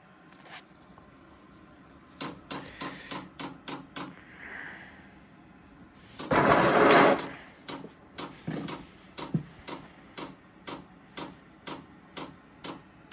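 Diesel heater's fuel dosing pump clicking, settling into a regular tick about twice a second while the heater primes and starts. About six seconds in, a loud rushing noise lasts about a second.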